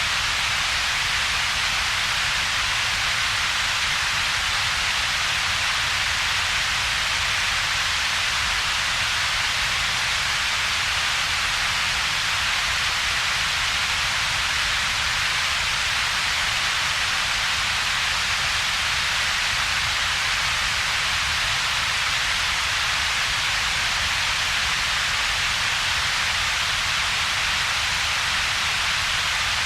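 Steady synthetic noise with two peaks in its spectrum: a strong hiss centred in the upper mids and a weaker low rumble, with a hollow in between. It does not change at all.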